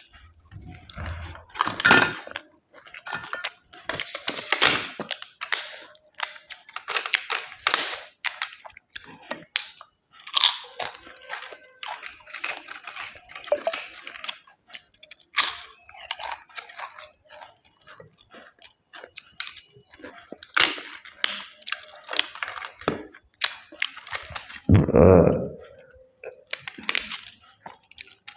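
Close-up mouth sounds of a person eating chicken biryani: irregular chewing, biting and crunching. Near the end comes one louder, deeper sound.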